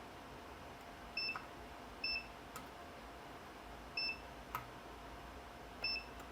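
Digital multimeter giving short, high beeps, four of them at uneven intervals, with faint clicks of the probes between, while resistance on a circuit board is checked for a short. A faint steady hum runs underneath.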